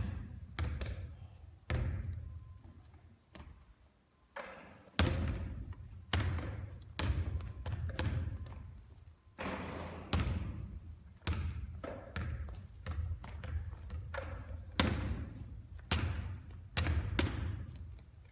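Basketball bouncing on a court: a string of sharp thuds at roughly one a second, unevenly spaced, each trailing off in a ringing echo.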